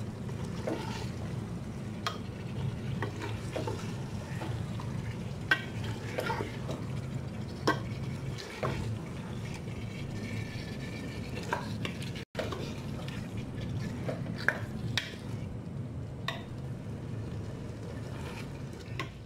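Chicken pieces frying in masala gravy in a pot, with a faint sizzle and a spoon stirring and knocking against the pot in scattered clicks over a steady low hum.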